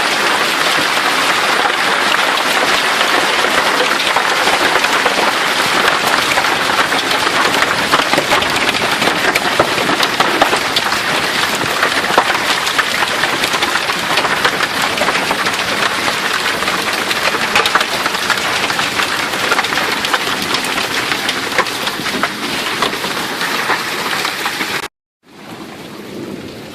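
Hailstorm: a dense, steady clatter of hailstones striking, with many sharp individual impacts over a heavy rain-like hiss. It cuts off abruptly near the end, and a quieter fall of hail and rain follows.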